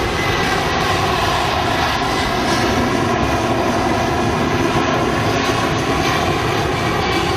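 C-17's four Pratt & Whitney F117 turbofan engines at full power during a slow, low pass with gear and flaps down. A steady, loud jet engine noise with several held tones, unchanging throughout.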